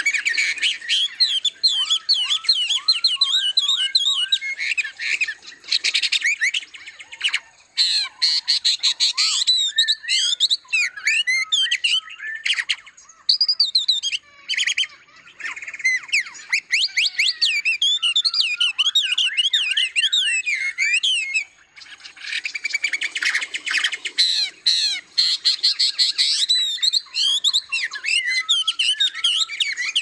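Several aviary songbirds calling and singing together: a busy, overlapping run of chirps, squawky notes and quick warbled phrases, with a few short pauses.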